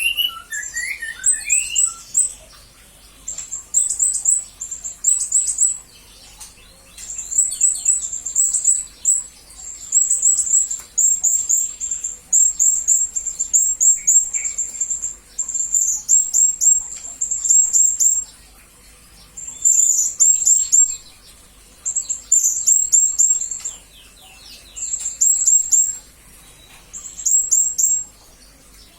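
Blue-crowned hanging parrot (serindit) calling: high, thin chirping trills in bursts of one to two seconds, repeated about every two seconds.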